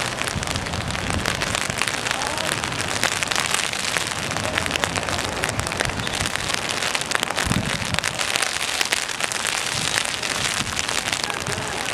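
Steady rain pattering close by, a dense patter of many small drop hits.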